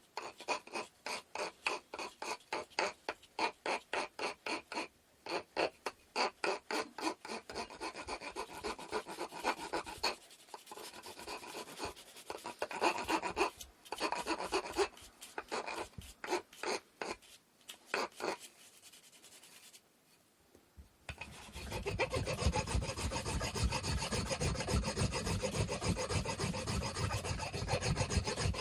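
Hand-sanding wood with sandpaper, rhythmic back-and-forth rubbing strokes at about two a second, pausing briefly about twenty seconds in, then resuming with faster, more continuous strokes.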